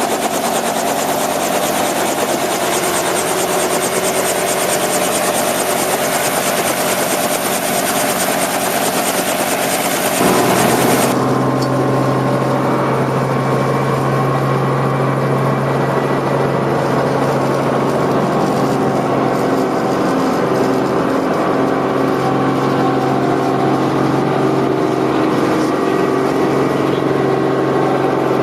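Helicopter in flight, its engine and rotor running steadily. About ten seconds in the sound changes abruptly: the high hiss drops away and a strong steady low hum takes over.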